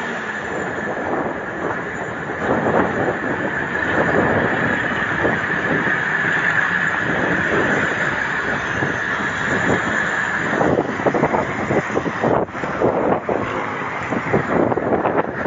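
Wind buffeting the microphone while riding a bicycle along a road, mixed with a steady rush of road and traffic noise.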